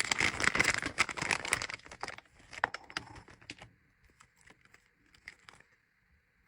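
Crinkly packaging bags rustling and crinkling as they are handled, busy for about two seconds, then thinning to a few scattered light clicks and taps that fade away.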